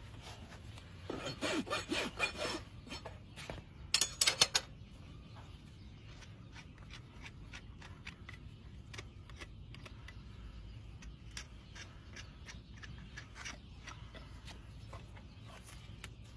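Hoof rasp filing a horse's hoof: a few short scraping strokes about a second in, a louder run of strokes at about four seconds, then only faint scattered scrapes and ticks.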